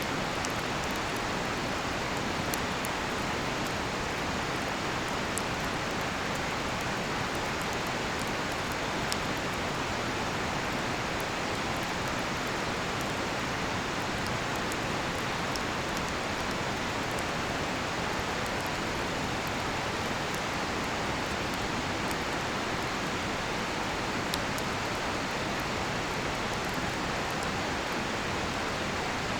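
Steady rushing of a nearby river, with faint, scattered crackles and pops from a cedar-wood campfire.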